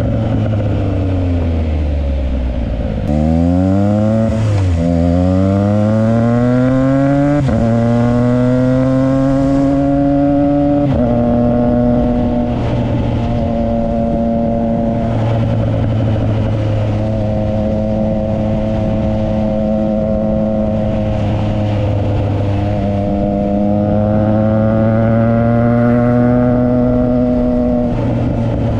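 Triumph Trident 660's three-cylinder engine through a Yoshimura exhaust, accelerating hard through the gears: the note rises and then drops at each of about three quick upshifts in the first ten seconds. It then settles into steady cruising revs with small rises and falls, over a rush of wind noise.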